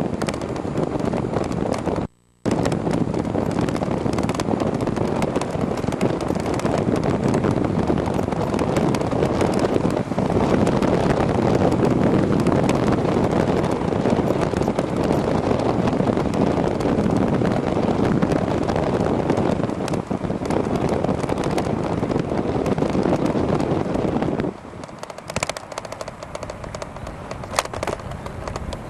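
Wind rushing over the bike-mounted camera's microphone while riding an e-bike, with road noise and many small knocks. The sound cuts out briefly about two seconds in. Near the end it drops sharply, leaving a quieter hiss with a few clicks.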